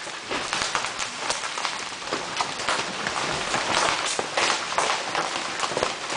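Hail and rain in a storm: a dense, steady rush of rain with many irregular sharp knocks of large hailstones striking hard surfaces.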